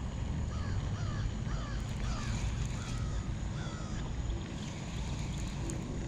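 A bird calling in a quick series of short notes, each rising and falling in pitch, over the first four seconds or so, above a steady low rumble.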